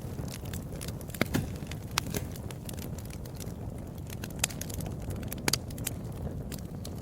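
Wood fire burning with a steady low rumble and irregular sharp crackles and pops, a dozen or so scattered through, the loudest about a second in.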